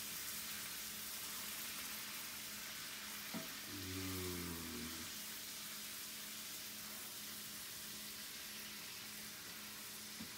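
Capers frying in brown butter in a skillet, a steady sizzle while a spatula stirs them. A single click comes a little after three seconds, then a brief low murmur about four seconds in.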